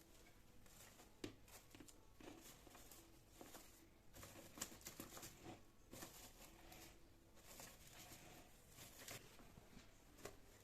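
Near silence with faint, scattered small clicks and rustles, as of things being handled, and a slightly sharper click about a second in.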